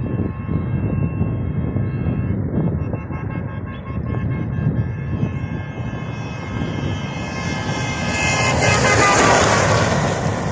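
Wind buffeting the microphone in a steady low rumble, under faint steady tones. A louder rush of noise swells about eight seconds in.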